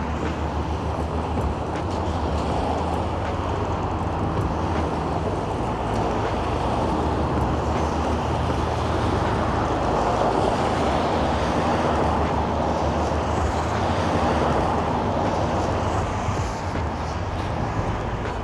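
City street traffic: a steady wash of vehicles and tyre noise with a low rumble, growing louder through the middle as traffic passes close, then easing.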